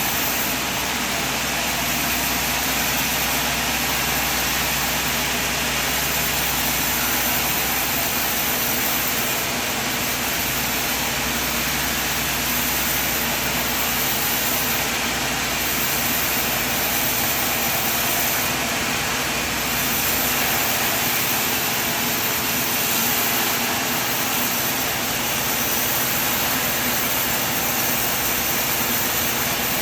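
Sawmill machine running steadily.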